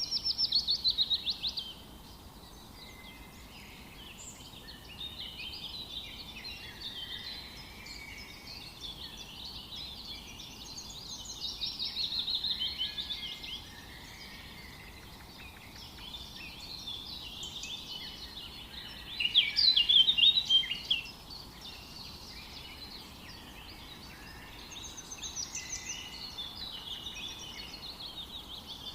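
Several songbirds singing at once in a forest chorus, overlapping high chirps and warbles. A rapid trill stands out at the start, another around the middle, and the loudest burst comes about two-thirds through, over a faint steady background hiss.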